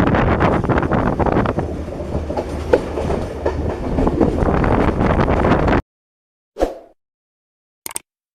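Train running on the rails, wheels clattering with a dense rushing noise, which cuts off abruptly about six seconds in, followed by two brief clicks.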